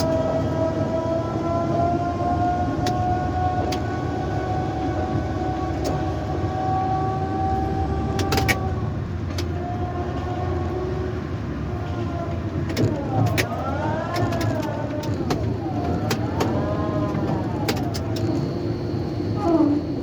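Tower crane drive motors whining steadily, the pitch creeping slowly upward, then rising and falling twice as the speed changes, with scattered sharp clicks and a faint high beep near the end.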